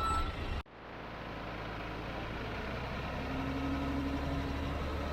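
Truck engine idling with a steady low rumble, picking up after an abrupt cut less than a second in.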